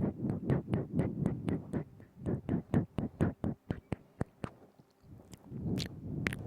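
ASMR mouth sounds very close to the microphone: quick wet tongue clicks and lip smacks, about four a second, thinning out about four seconds in into softer, squishier mouth noise.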